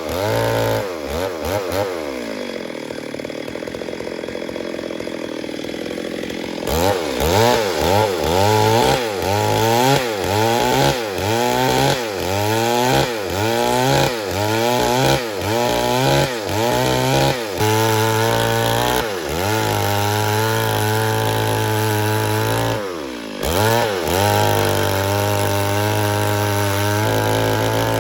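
Stihl MS 382 two-stroke chainsaw idling for several seconds, then revved up and down about once a second. It is then held at high revs, with a brief drop near the end.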